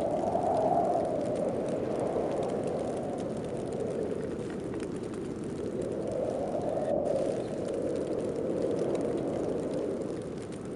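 Snowstorm wind blowing in gusts: a continuous rushing howl that rises and falls in slow swells every few seconds.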